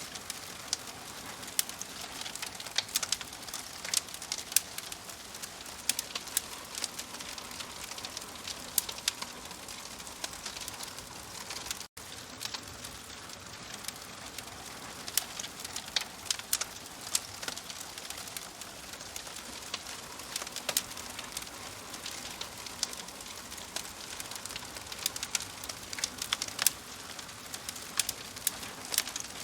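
Wood fire crackling: a steady soft hiss of burning with frequent sharp irregular pops. The sound drops out for an instant about twelve seconds in.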